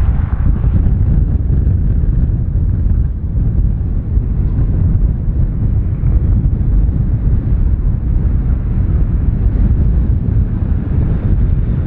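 Low, steady rumble of a Qantas Airbus A330-200 jet landing, mixed with heavy wind buffeting the microphone.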